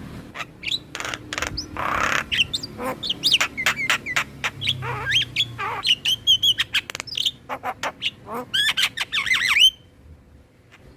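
Javan myna singing a busy, varied song of whistles, chirps, trills and harsh squawks, which cuts off suddenly near the end.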